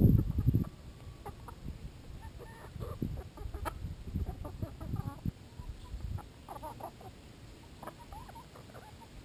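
Chickens clucking, with scattered low knocks and thuds; the thuds are loudest in the first half second.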